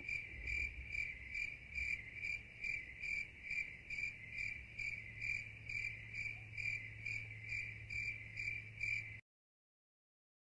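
Crickets chirping, a stock sound-effect recording: an even, rhythmic chirp about twice a second that cuts off about nine seconds in.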